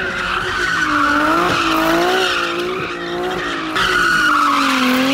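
A vehicle spinning donuts: the tyres squeal without a break while the engine's revs rise and fall over and over. The squeal gets louder a little before four seconds in.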